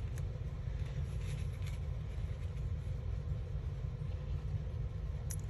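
Steady low background rumble with a faint hum, and a few faint light clicks.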